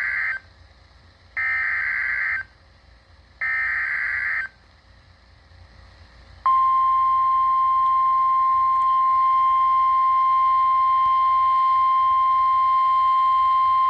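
NOAA Weather Radio emergency alert. The end of one SAME digital header burst and two more follow it, harsh data squawks of about a second each, a second apart. After a short pause comes the long steady warning alarm tone, starting about six and a half seconds in, which signals that a warning, here a severe thunderstorm warning, is being broadcast.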